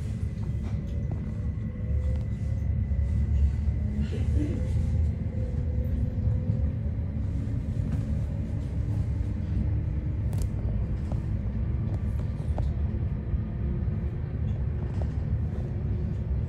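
Cabin of an electric commuter train pulling out of a station: a steady low rumble, with the motors' whine slowly rising in pitch as the train picks up speed, and a few light clicks.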